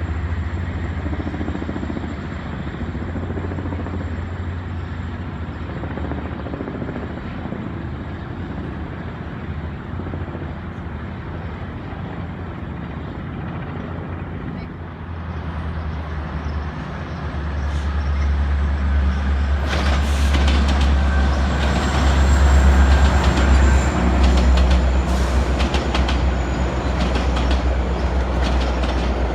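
Passenger train on the rail line below: a steady low engine drone that grows louder about two-thirds of the way through, then wheels clicking over the rail joints as the train comes close.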